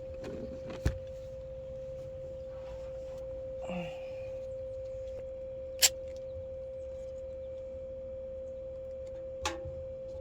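A steady single-pitched hum runs throughout, with a few sharp clicks and knocks from handling the fuel tank and duct tape while taping it off, the loudest about six seconds in.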